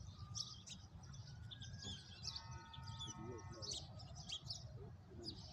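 Many small birds chirping over a steady low rumble. A faint steady pitched tone sounds for about a second and a half midway.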